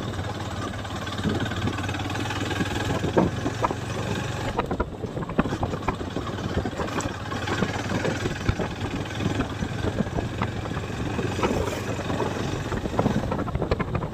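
Motorcycle engine running steadily while riding, with wind noise on the microphone and frequent short knocks and rattles.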